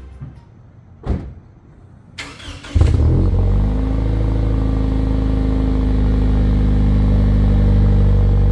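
A thump, a brief starter crank, then a car engine catches about three seconds in with a short rev and settles into a steady idle on a cold morning start.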